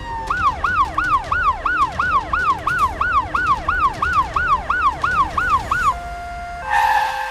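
Electronic siren of a toy emergency vehicle in a fast yelp, its pitch rising and falling about three times a second. Near the end it gives way to steady electronic tones and a short noisy burst.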